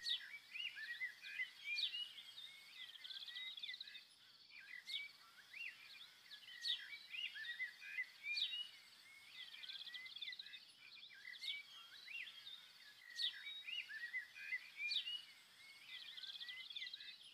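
Faint chirping of small birds: short calls that sweep up and down in pitch, repeating every second or so over a steady high hiss.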